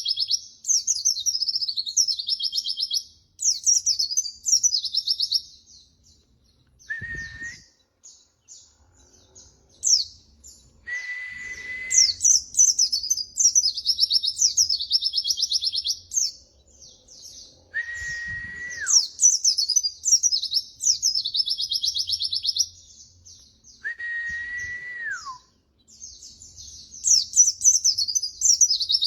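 White-eye (pleci) singing: long phrases of rapid high twittering and trills, broken by short pauses. Four times a single held whistle note sounds lower, each one sliding downward at its end.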